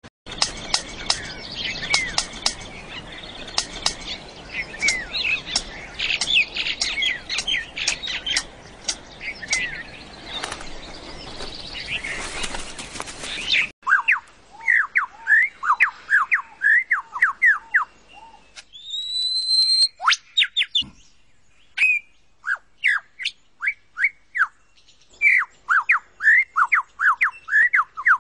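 Birds chirping and calling. For about the first half, many chirps overlap over a background hiss. After an abrupt cut, a bird sings quick runs of short sliding notes, with pauses between the runs.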